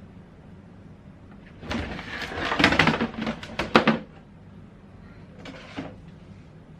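Hard household objects clattering and knocking as they are handled: a dense run of sharp clicks and knocks for about two seconds, then one shorter knock a couple of seconds later.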